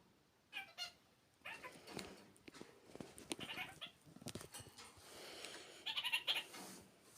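Pet kakariki parakeet giving short bursts of chattering calls, several times, loudest about six seconds in, with small clicks and scuffs between the calls.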